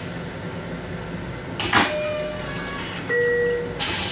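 Steady rumble of an M7 electric railcar under way, heard from inside its restroom. A sharp crack comes a little under two seconds in with a brief tone after it, a short steady tone follows about three seconds in, and a burst of hiss starts near the end.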